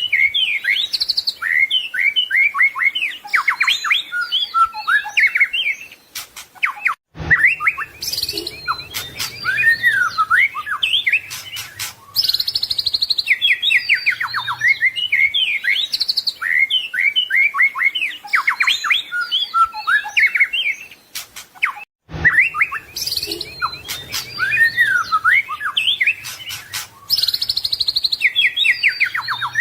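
White-rumped shama (murai batu) singing a rapid, varied song of whistles, trills and chirps, packed with mimicked phrases. The same passage repeats about every fifteen seconds, each repeat starting just after a brief cut-out in the sound.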